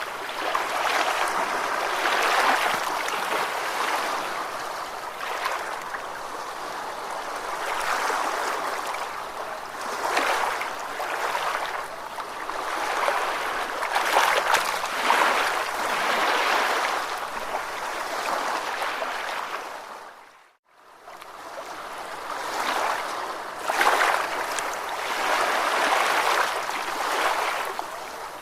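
Ocean waves washing in, a rushing surf that swells and eases every couple of seconds. About two-thirds of the way through it fades to silence for under a second, then fades back in.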